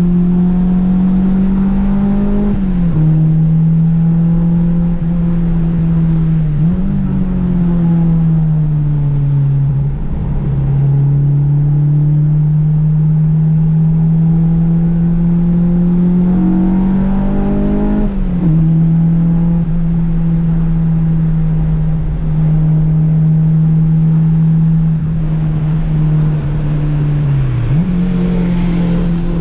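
Honda Civic's engine running hard on a race track. Its pitch climbs slowly through each gear, then drops sharply at upshifts about three seconds in and again after eighteen seconds. It falls away and rises again where the car slows and picks up speed, with a quick dip and jump in pitch near the end.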